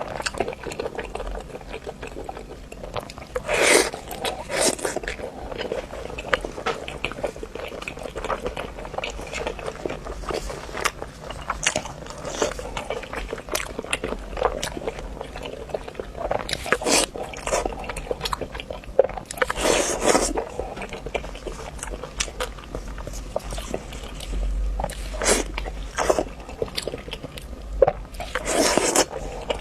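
Close-miked wet eating sounds from braised pig's trotters: steady chewing, biting and lip-smacking, with louder sucking, slurping bursts every few seconds.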